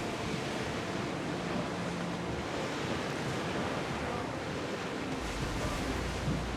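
Steady rush of sea waves and water, with wind. A low rumble joins in about five seconds in.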